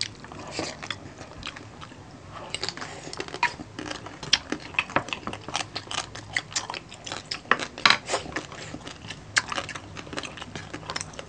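Close-up mouth sounds of eating crispy roast pork belly (lechon belly): chewing, with many irregular sharp crunches and wet clicks.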